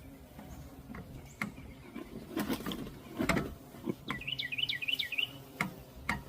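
A songbird sings one quick warbling phrase of jumbled chirps about four seconds in. Two louder rustling noises come near the middle, with a few light clicks.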